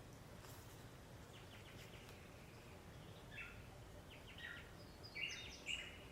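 Songbirds chirping faintly in short, scattered notes, becoming more frequent and a little louder over the last couple of seconds.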